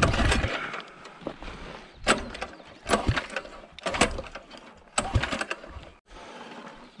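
A series of sharp knocks, one about every second, after a noisy burst at the start.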